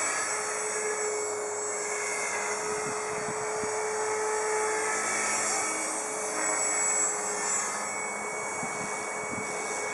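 Align T-Rex 450 Pro DFC electric RC helicopter in flight: a steady high whine from its brushless motor and drive gears over the hum of the spinning rotor blades, shifting slightly in pitch as the pilot works the throttle and collective.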